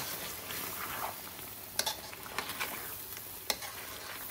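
Chicken curry with freshly added base gravy sizzling in a metal karahi over high gas heat while a metal ladle stirs it, clinking sharply against the pan a few times.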